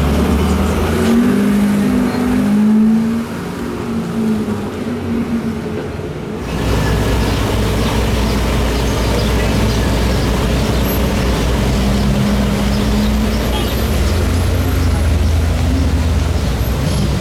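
Car engines running at low speed in street traffic, a dense low rumble. About six seconds in it steps up suddenly into a fuller, steady low drone.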